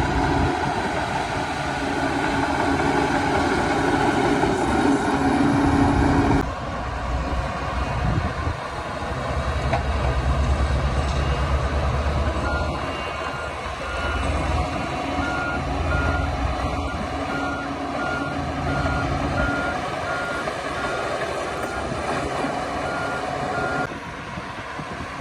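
Heavy diesel engines of a bulldozer and dump trucks working, with a reversing alarm beeping steadily about once a second from about halfway through.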